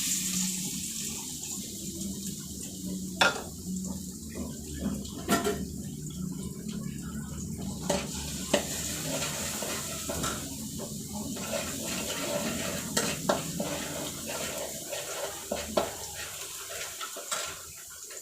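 A steady hiss with scattered sharp clinks of metal utensils on cookware in a kitchen. The hiss fades near the end.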